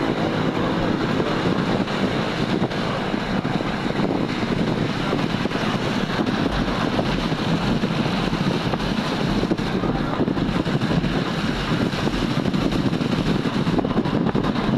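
Steady road traffic noise from moving vehicles, with wind buffeting the microphone.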